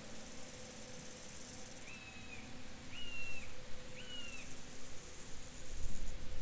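Field ambience: a steady high hum of insects, with a bird giving three short whistled calls about a second apart in the middle. A low rumble comes in near the end.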